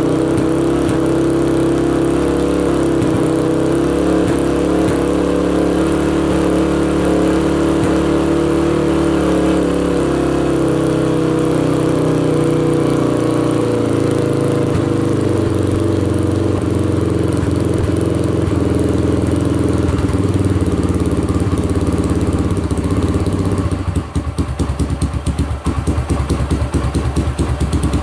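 A rebuilt carbureted engine running just after a cold start, warming up on some throttle. Its revs settle lower about halfway through, and near the end it runs rough and uneven.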